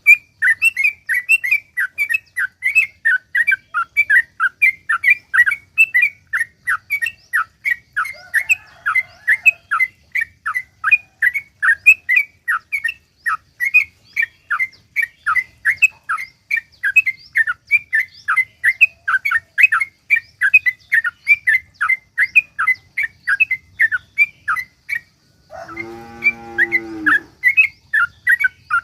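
Yellow-vented bulbul (trucukan) singing a long, unbroken rapid song: short chattering notes at about four a second. Near the end a lower, drawn-out call briefly breaks in while the song pauses.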